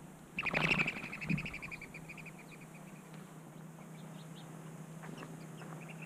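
A songbird sings a fast trill about half a second in, loud at first and fading out over about a second and a half. A few faint high notes follow, and a second, quieter trill starts near the end.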